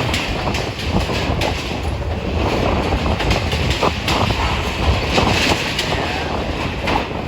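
Strong wind buffeting the microphone over a steady low rumble, with scattered knocks and rattles.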